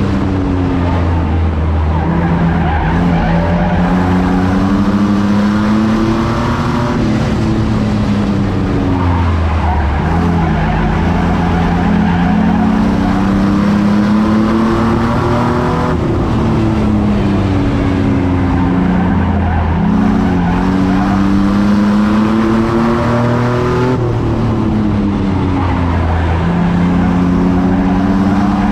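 Race truck's engine at racing speed, its pitch climbing and then dropping in a repeating cycle about every eight seconds as it accelerates and backs off, with road and tyre noise underneath.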